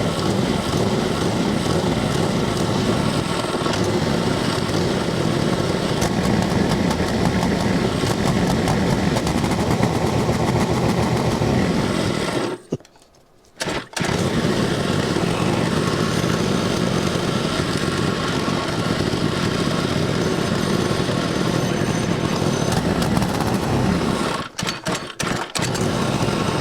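Go-kart's small gasoline engine running, with its carburetor freshly cleaned. The sound breaks off abruptly for about a second midway through, and again in short gaps near the end.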